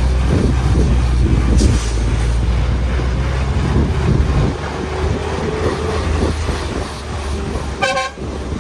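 Public bus running, its engine and road rumble loud and low, easing off about halfway through. A vehicle horn toots briefly near the end.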